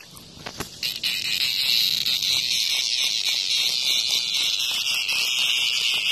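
Cicada buzzing loudly: a high, harsh drone that breaks off at the start and picks up again about a second in, then holds steady.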